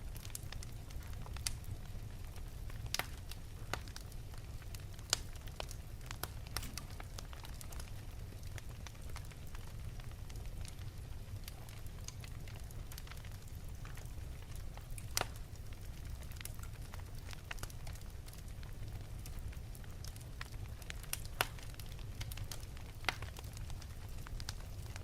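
Wood fire burning in an open fireplace: a low steady rumble of flame, with sharp pops and crackles at irregular intervals, a few of them louder.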